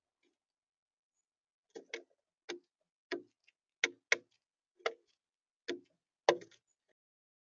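A series of about nine sharp taps or knocks, spaced irregularly about half a second apart, with the loudest one near the end.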